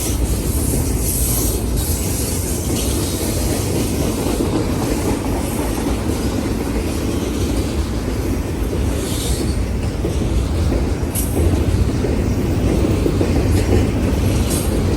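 A train rolling past at trackside: a steady, loud rumble of wheels on rail, with a few brief high squeaks from the wheels.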